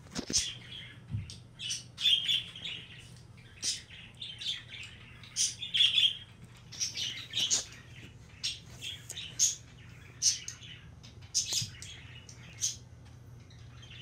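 Bird chirps, short and irregular, come many times over a steady low hum from a running Hunter Beacon Hill ceiling fan.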